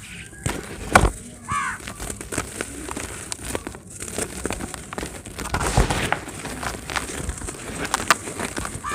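Dry cement being crumbled, a run of irregular crackles and crunches with a sharper snap about a second in and denser crackling past the middle.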